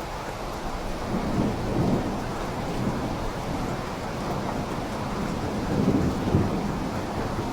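Steady rain with low rolling thunder, the rumble swelling about two seconds in and again around six seconds.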